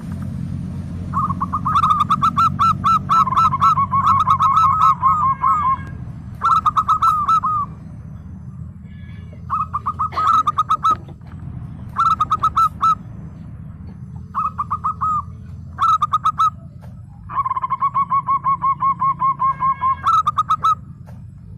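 Zebra dove (perkutut) singing: phrases of rapid, staccato cooing notes, a long run near the start and another near the end with shorter bursts between them, over a steady low hum.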